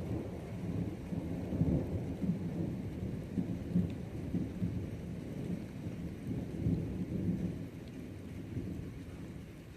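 Rolling thunder rumbling over steady rain, the rumble fading away near the end.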